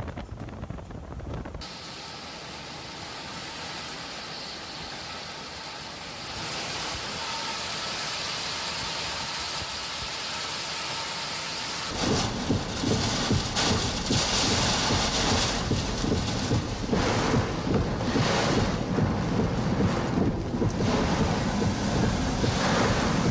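Storm wind and rain: at first a steady rushing hiss, then from about halfway through loud, gusting wind buffeting the microphone with a low rumble.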